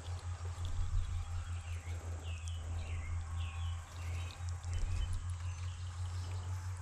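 A songbird gives a short run of about five quick chirps between two and four seconds in, over a steady low rumble.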